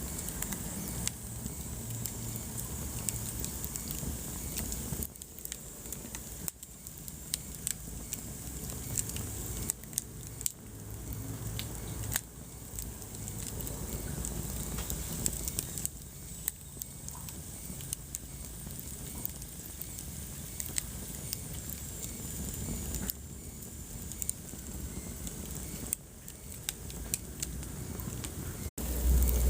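Wood fire crackling and popping, with dense irregular snaps over a steady low rumble of burning logs.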